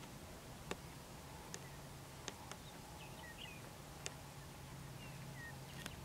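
Faint lakeshore ambience with a low hum, a few short, faint bird chirps, and about six sharp clicks scattered through it.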